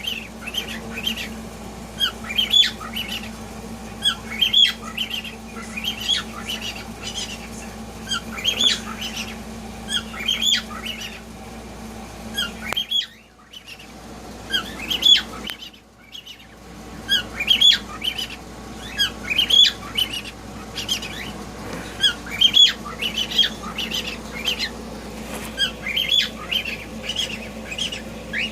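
Several pet cockatiels squawking and calling over and over in short, sharp bursts, with two brief lulls about halfway through. A steady low hum runs underneath.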